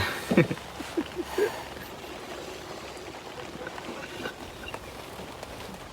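Steady hiss of rain, with a few short, loud knocks or sounds in the first second and a half.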